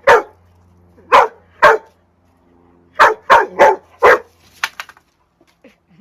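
A dog barking: about seven short, loud barks, three spread over the first two seconds, then a quick run of four after a pause, trailing off into a few faint sounds.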